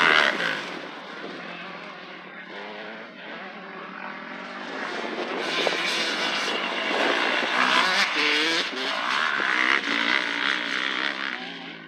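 Motocross dirt bike engine revving up and down as the bike rides the track: it fades a second or so in, then grows louder again from about five seconds in as it comes back up and around.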